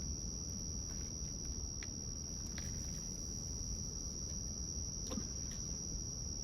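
A chorus of crickets keeps up one steady, unbroken high trill, with a low steady rush underneath and a few faint clicks.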